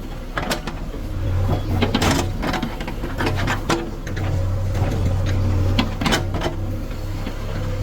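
JCB 3DX backhoe loader's diesel engine working, its low drone swelling and easing several times under changing load, with sharp metallic knocks and clanks scattered through.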